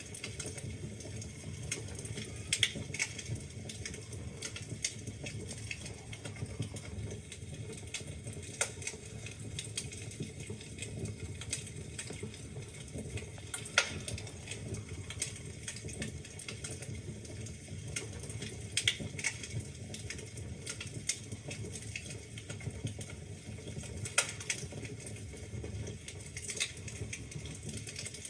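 Wood fire burning in a fireplace: a steady low rumble of flames with frequent irregular crackles and sharp pops from the burning logs, a few louder snaps standing out.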